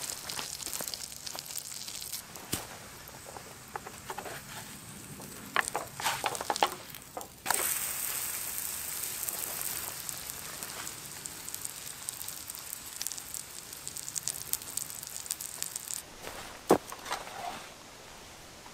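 Pancake batter frying in bacon grease in a pan over a charcoal fire: a steady sizzle with scattered crackles and pops. The sizzle jumps louder about a third of the way in and falls away near the end.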